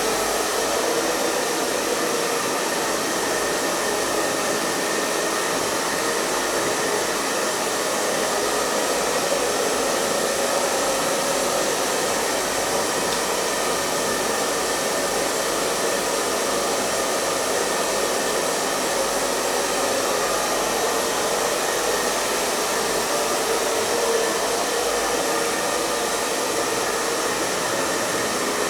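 Hair dryer blowing steadily: an even, unbroken rushing noise with a faint steady whine from the motor.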